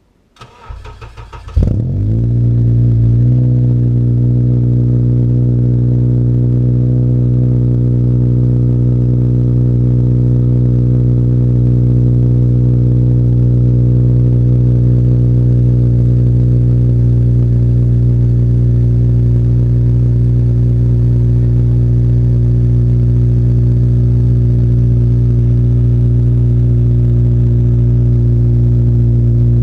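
Cold start of a K24A4/K20Z3 swapped Honda Civic engine, breathing through a Skunk2 70 mm cat-back with a gutted cat: the starter cranks for about a second, the engine catches with a brief flare, then settles into a steady idle.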